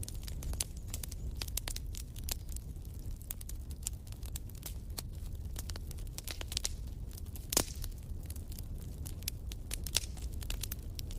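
Wood fire in a fireplace crackling, with irregular sharp pops over a steady low rumble; one louder pop about two-thirds of the way through.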